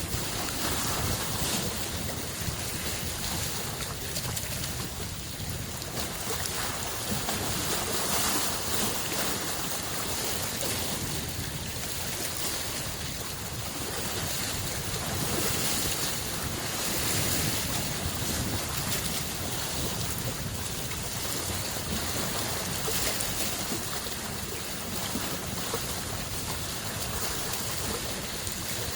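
Small lake waves washing onto the shore of Lake Biwa in a continuous rush of surf. It swells gently every several seconds, over a low rumble.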